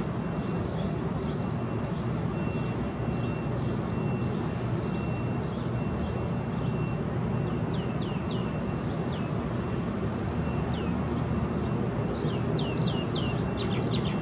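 Small birds chirping: a short high note repeating about every two and a half seconds, and clusters of quick sliding chirps in the second half, over a steady low background hum.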